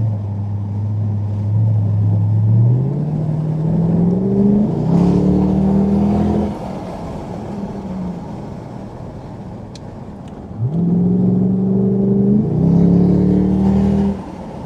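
Jaguar XK8's V8 through an Adamesh stage 2 sports exhaust, heard from inside the cabin, accelerating hard twice: the note climbs in pitch for about six seconds, eases back to a quieter cruise, then climbs again about eleven seconds in before lifting off.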